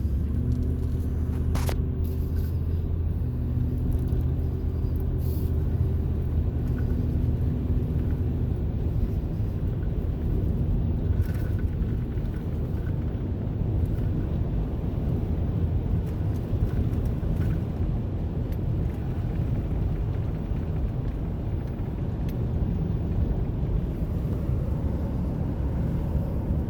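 Motor vehicle running with a steady low rumble. A humming engine tone stands out for the first several seconds, then gives way to an even rumble, with a few faint clicks.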